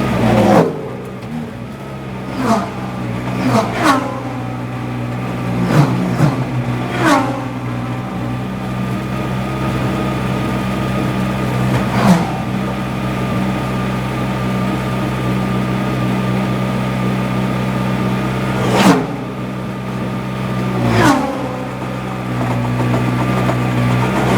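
GT3 race car engine running at a steady pitch, heard onboard. Other race cars pass close by about eight times, each pass rising sharply in loudness and then falling away in pitch.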